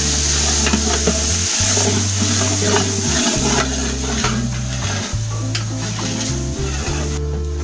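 Chopped greens sizzling in hot oil in a large aluminium pot while a long-handled metal spatula stirs them and scrapes against the pot. Background music with a steady bass line plays throughout.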